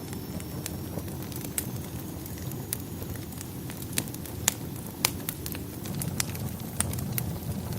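Wood fire in a fireplace crackling, with irregular sharp pops over a steady low rumble; the loudest pops come about four and a half and five seconds in.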